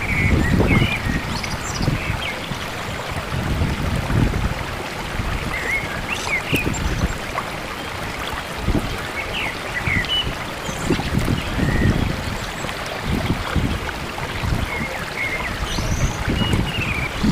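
Sea surf at the shore with wind gusting on the microphone, and short high bird chirps every few seconds.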